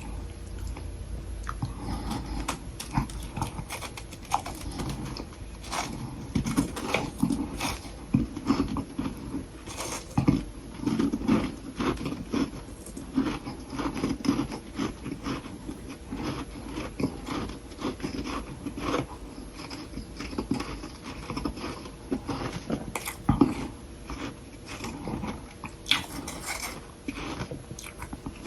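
Close-miked biting and chewing of soft humidifier-grown freezer frost sticks: a dense, irregular run of quick, crisp crunches.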